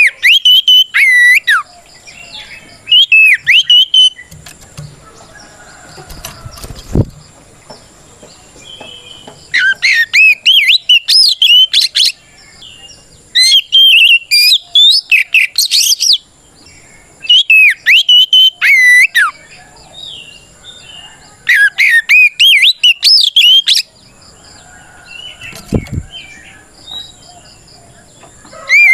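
Oriental magpie-robin (kacer) singing loud, rapid whistled phrases in bursts of two or three seconds, with short pauses between: its full challenge song, calling out a rival.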